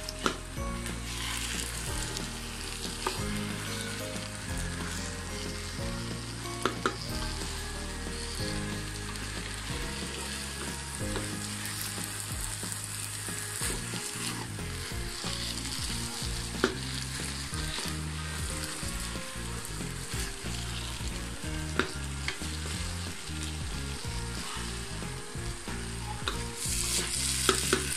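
Rice and lentils frying in oil and spice paste in a pan, sizzling steadily as a wooden spatula stirs and scrapes through the grains, with occasional sharp knocks of the spatula against the pan. This is the dry-frying stage of the rice before water goes in.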